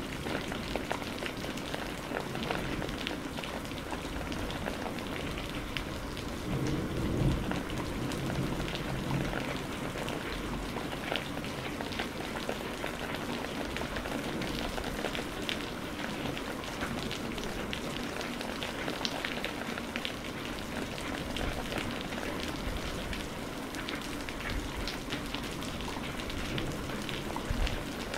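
Steady heavy rain falling on a surface, with many distinct drop splashes, and a low rumble of thunder swelling about seven seconds in.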